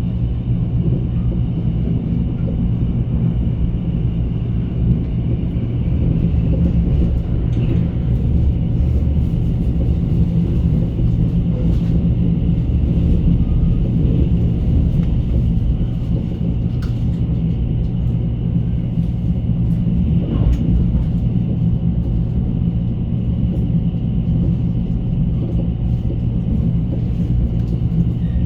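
Steady low rumble of a moving passenger train heard from inside the car, with a faint steady high whine and a few light clicks over it.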